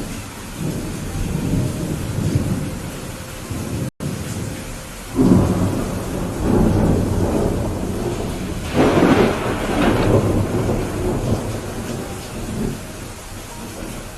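Steady heavy rain with thunder rolling through it. A low rumble builds in the first few seconds, the sound cuts out for an instant just before 4 s, then a thunderclap breaks about 5 s in and a louder crackling peal comes near 9 s, both rumbling away over several seconds.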